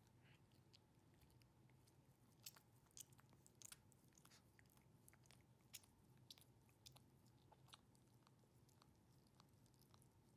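Chihuahua grooming himself, nibbling and licking at his fur: faint, irregular small wet clicks and nibbles, busiest from a couple of seconds in until past the middle.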